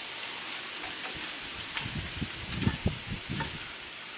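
Steady hiss, with a run of soft low knocks and a few light clicks between about two and three and a half seconds in: workshop handling noise.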